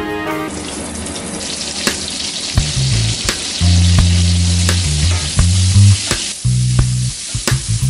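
Food sizzling as it fries in a hot pan, with scattered sharp clicks of a utensil against the pan. The sizzle grows louder a second or two in and eases off near the end. Low bass notes of background music run under it.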